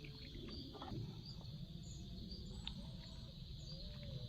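Outdoor wildlife sound: a steady high insect buzz, with small bird chirps repeating over it and short, soft calls lower down. A few faint clicks come through.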